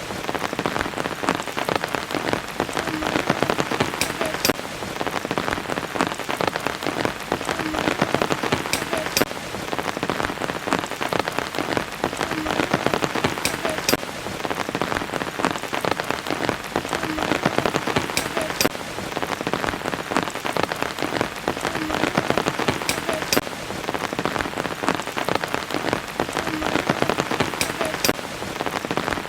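Steady rain falling onto surfaces, heard as a dense wash of close drop hits. The same few sharper drips come back about every four and a half seconds, as in a looped rain recording.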